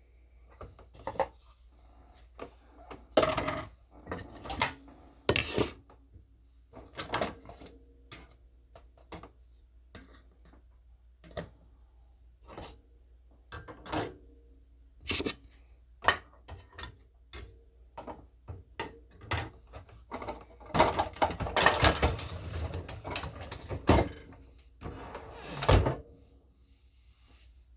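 Irregular knocks, clicks and clatters of a small countertop dishwasher being handled: its parts moved about while looking for what stops it from spinning. The clattering is busiest near the end.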